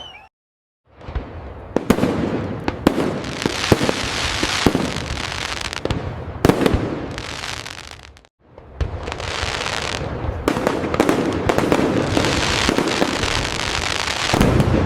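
Fireworks display: dense crackling with many sharp booms from aerial shells. It cuts out to silence twice, briefly: just after the start and again a little past eight seconds in.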